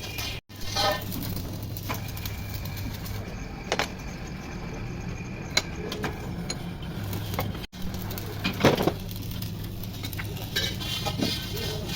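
New Holland tractor's diesel engine running steadily, with a few sharp clanks.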